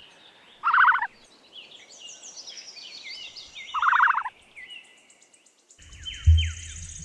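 Two short, rapidly pulsed, rattling calls from a large bird, about a second in and again about four seconds in, with small birds chirping behind. Near the end the sound changes to low, deep thuds repeating under the chirping.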